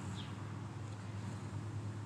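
Domestic cat purring steadily close to the microphone, with a short falling bird chirp just after the start.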